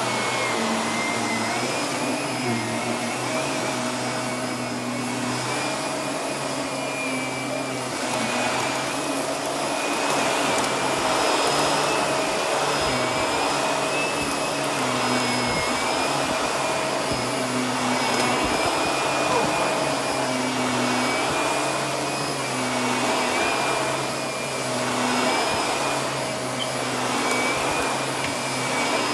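Vacuum cleaner running steadily with a high motor whine, its loudness swelling and easing every few seconds as it is worked over the floor.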